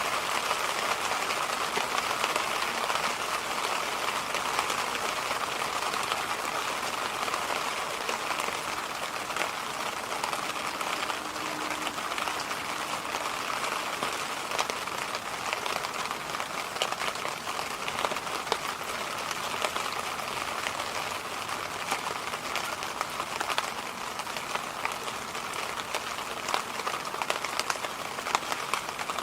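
Electric fan running steadily: an even rushing hiss of moving air, with scattered light ticks through it.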